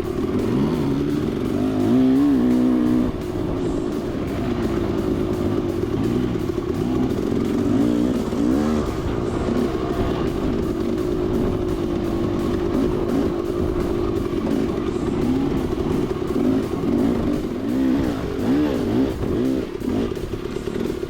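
Dirt bike engine running under way, its revs rising and falling again and again as the throttle is worked.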